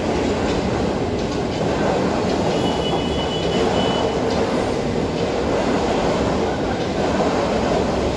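A train running past on a nearby track, a loud steady rumble with a brief thin high squeal about two and a half seconds in.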